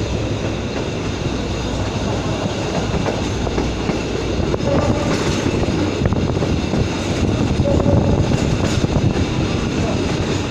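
Running noise of a moving train heard from on board: a steady noise of wheels on the track that holds at a fairly even level.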